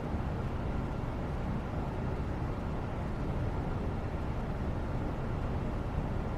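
Steady low background noise, an even rumbling hiss with no distinct events.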